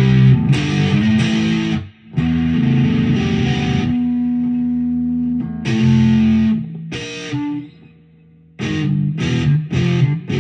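Electric guitar, a B.C. Rich Ironbird copy, played with distortion: chords struck and let ring, then one long held chord. Near the end a short pause, then a quick run of short chugged chords.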